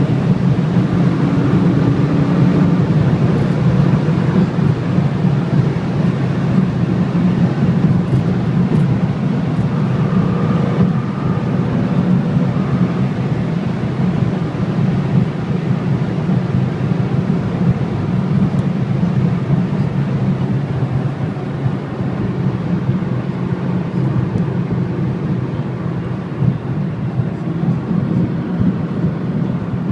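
A road vehicle running steadily at speed on the highway: a constant low drone of engine and road noise, easing off slightly in the last third.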